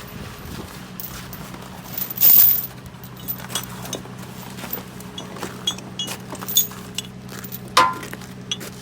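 A vehicle engine idling steadily, with scattered metallic clinks and knocks and one brief, loud noisy burst about two seconds in.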